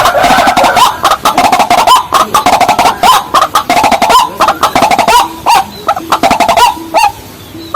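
White-breasted waterhen calling: loud, rapid, repeated harsh calls that overlap in a dense, rhythmic chorus. The calls thin out near the end.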